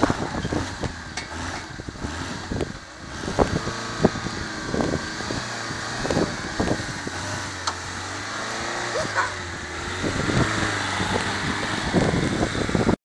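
Suzuki Jimny off-road engine running at low revs, its pitch rising and falling with throttle, with many irregular knocks and clunks. The sound cuts off suddenly at the end.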